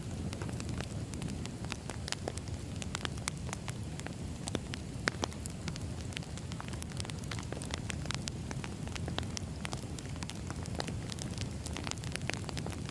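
Wood fire burning steadily, with irregular crackles and pops from the burning logs over a low, steady rumble of flame.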